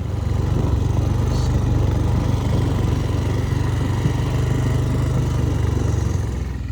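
A small vehicle's engine running steadily close by, with a low even hum. It comes up right at the start and drops away just before the end.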